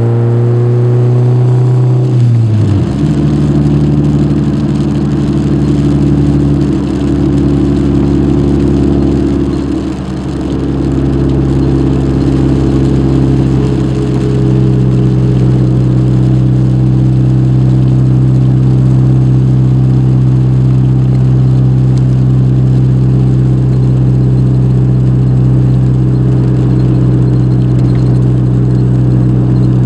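Car engine heard from inside the cabin while driving: its note rises at first, drops suddenly about two seconds in, then holds steady while cruising.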